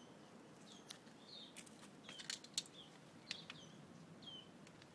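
Faint songbird calls: short, falling chirps repeated every second or so, with a few sharp clicks among them.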